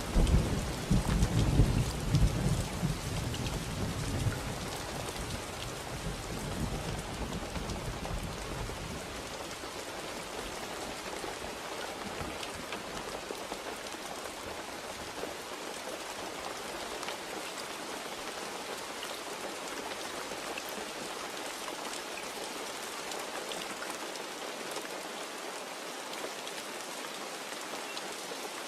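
Steady rain falling, with a low rumble of thunder in the first few seconds that fades away by about a third of the way in, leaving only the rain.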